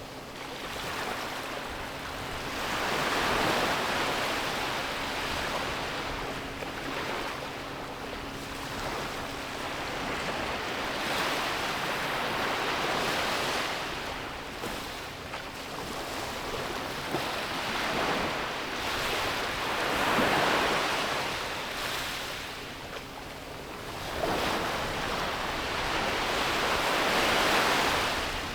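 Ocean surf breaking and washing onto a beach, the sound swelling and fading in slow surges every several seconds.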